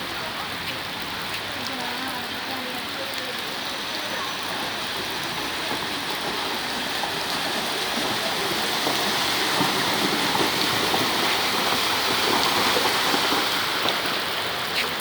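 Heavy rain pouring down and splashing on surfaces, a steady dense hiss that grows louder about halfway through.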